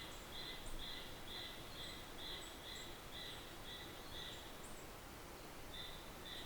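Natural outdoor ambience with a high chirp repeated about twice a second, breaking off for about a second near the end, and a few faint, short, higher peeps above it.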